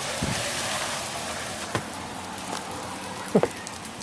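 Sleet falling, a steady hiss of ice pellets pattering on surfaces, with a few sharper ticks, the loudest near the end.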